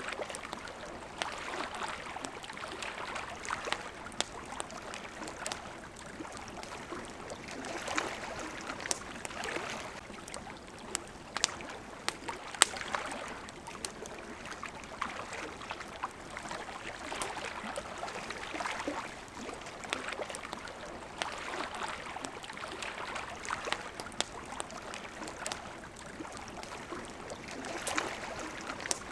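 Water lapping in small waves that swell and fade every few seconds, with a wood campfire crackling over it in scattered sharp pops.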